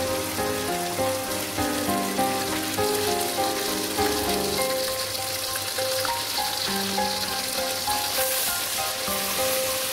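Onions and spice pastes sizzling in hot oil in a pan, the sizzle growing stronger about halfway through. Background music with a melody of short notes plays over it.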